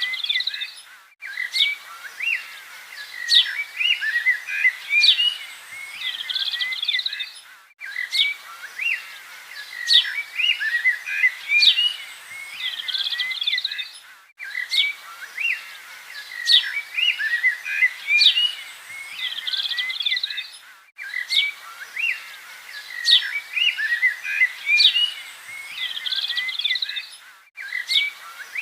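Several birds chirping and singing together over a steady hiss, many short calls and quick up-and-down whistles overlapping. The same few seconds of birdsong repeat about every six and a half seconds, each time after a brief drop-out.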